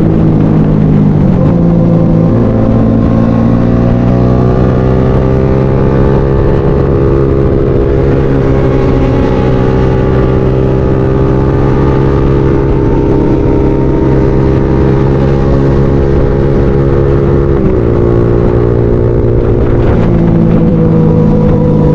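Motorcycle engine running under way while riding, heard from the bike. Its pitch holds fairly steady with slow drift and changes abruptly about a second in and twice near the end, as the throttle or gear changes.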